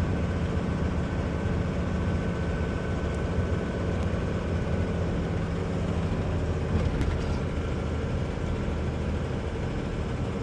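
Loaded semi truck's diesel engine and drivetrain droning steadily, heard inside the cab, with a faint steady whine above the low drone.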